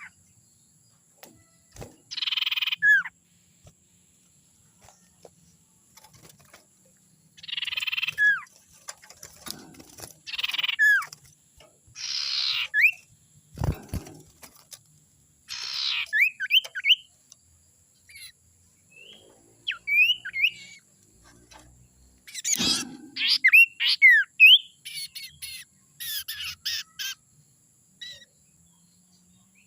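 Young wild sirtu bird calling: harsh rasping calls of about half a second, each usually ending in a short falling whistle, every two or three seconds, then a quicker flurry of whistled and rasping notes in the second half. Two dull low thumps come in the middle.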